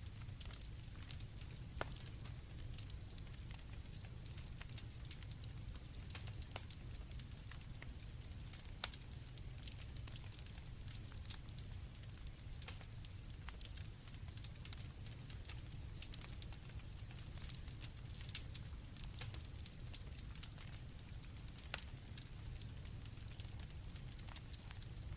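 Campfire crackling with irregular sharp pops over a low rumble, with a steady chorus of crickets.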